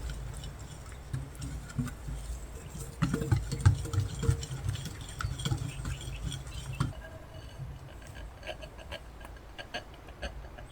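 Kitchen utensils handled during baking: scattered light clicks and taps, over a low rumble that drops away about seven seconds in.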